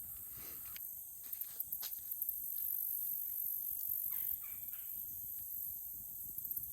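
Campfire crackling with scattered sharp pops, over a steady high chorus of crickets, with a brief rough call-like sound about four seconds in.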